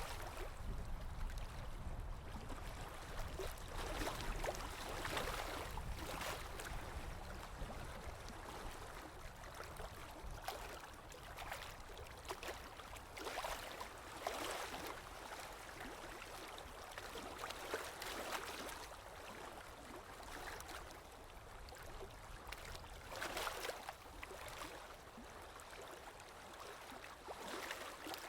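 Sea waves lapping and washing in, in irregular swells a second or a few seconds apart, over a low rumble.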